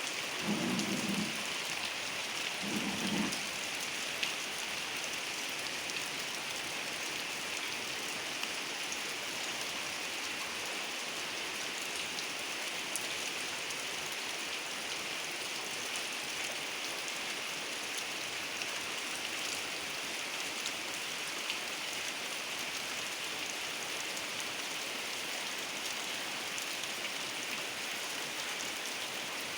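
Heavy rain falling steadily on surfaces, a continuous hiss with occasional faint drop ticks. Two short low sounds come in the first three seconds.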